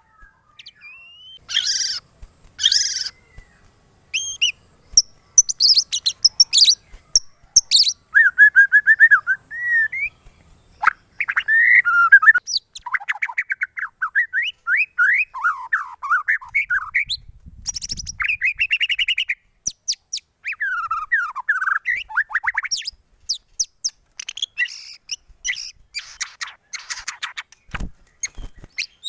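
White-rumped shama singing a long, varied song of clear whistles, rapid trills and scratchy, harsh notes, one phrase after another with short gaps.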